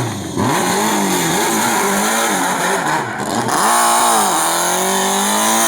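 Hillclimb race car engine, its revs rising and falling several times, then climbing about four seconds in to a high, steady note.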